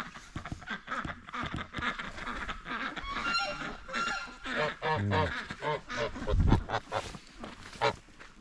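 Domestic geese honking, many short calls overlapping from several birds at once. A brief low rumble on the microphone about two-thirds of the way through.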